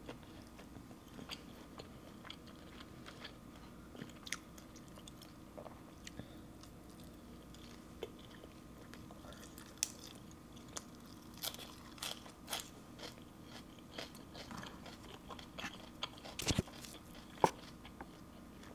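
A person eating up close: chewing with scattered crisp crunching bites and sharp mouth clicks, busiest about ten seconds in and again near the end, where the loudest crunch comes. The food is roast chicken wings, sticky rice and raw leafy greens.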